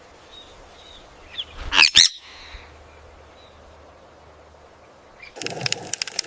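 A bird's shrill call: two loud, sweeping notes close together about two seconds in, with faint chirps, over a steady hiss. A crackling rustle starts near the end.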